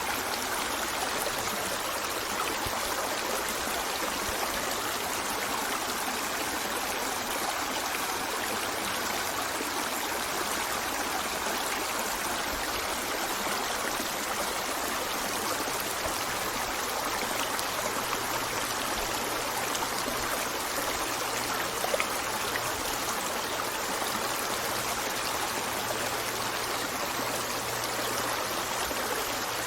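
A small river flowing steadily, an even rushing of water with some trickling, and a single brief splash or click about 22 seconds in.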